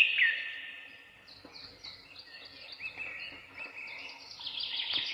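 Songbirds singing in a forest: a string of short, high, down-slurred chirps, the loudest right at the start, with a quicker run of notes near the end.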